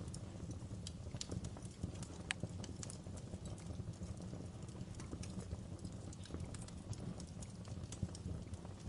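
Wood fire burning in a fireplace: irregular sharp crackles and pops over a steady low rumble of the flames, with one louder pop a little over two seconds in.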